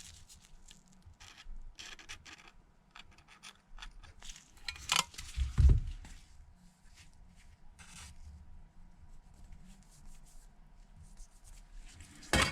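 Light rubbing, scraping and clicking as an iPhone housing and its new back glass are handled on the bench, with one louder knock about five and a half seconds in.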